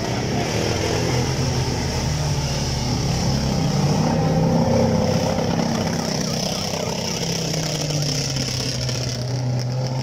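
Off-road 4x4 race buggies' engines running hard under load as they plough through deep mud, the engine note swelling and loudest about halfway through.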